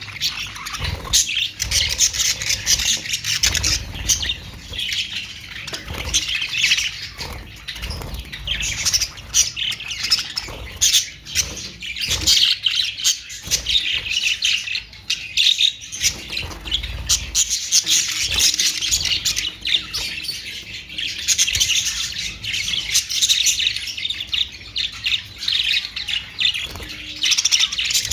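A flock of budgerigars chattering continuously, a dense mix of high-pitched chirps, warbles and short squawks with no pauses.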